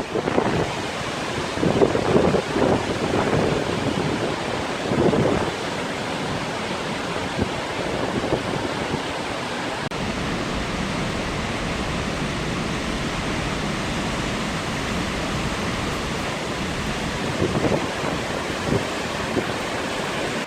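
Wind blowing outdoors over a steady rushing noise, with gusts buffeting the microphone a few times near the start and again near the end.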